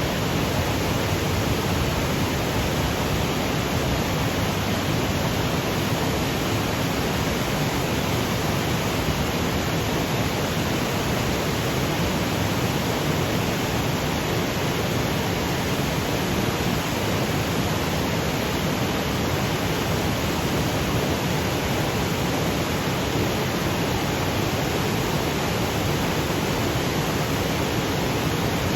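Mountain waterfall cascading over granite boulders: a steady, even rush of water with no breaks or changes.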